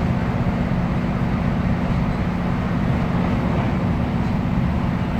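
Class 156 diesel multiple unit's Cummins six-cylinder diesel engine running steadily with the train under way, a constant low drone over rail noise, heard from inside the train.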